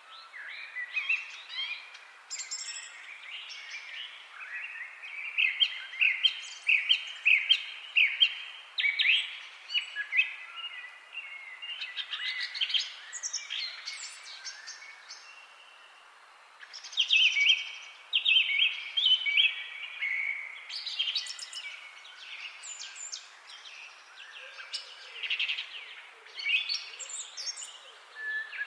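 Several songbirds chirping and trilling at once, short overlapping calls over a faint steady background hiss, with a brief lull about halfway through.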